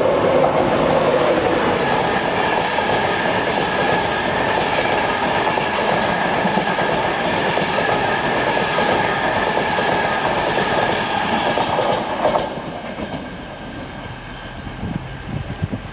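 A train running past, a loud steady rush with a few held tones that drops away sharply about twelve seconds in; a few low thuds follow near the end.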